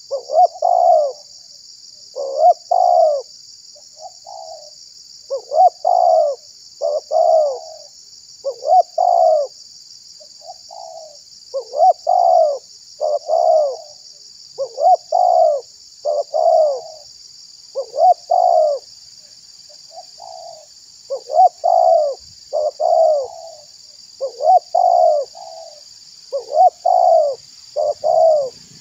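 Spotted dove (tekukur) cooing over and over, short phrases of two or three curving notes about once a second, over a steady high hiss. This is the lure call used to draw in wild doves.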